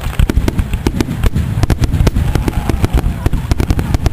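Fireworks going off in a rapid, irregular barrage of sharp bangs and crackles, several a second, over a low rumble.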